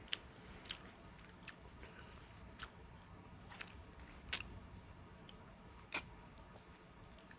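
Water drops from a leaking ceiling landing in buckets: faint, sharp single drips at irregular spacing, about seven in a few seconds.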